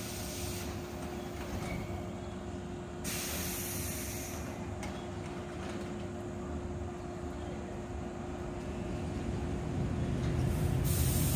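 JR 115-series electric train standing at the platform before departure, with a steady hum and sudden bursts of compressed-air hissing from its pneumatic doors and brakes. Near the end a low rumble grows louder as the train begins to pull away.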